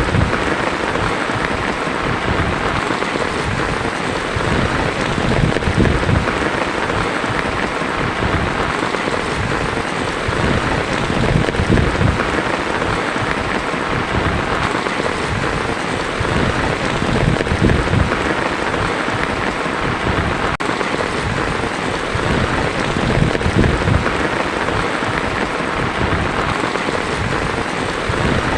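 Heavy rain drumming on a tin roof, a dense steady patter, with a low rumble swelling and fading underneath.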